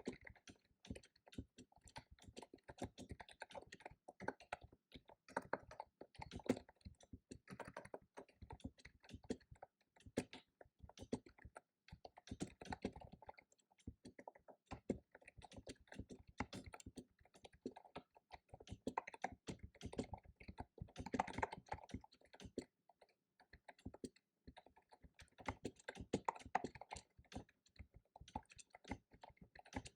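Computer keyboard being typed on: quick runs of key clicks broken by short pauses, as text is typed out.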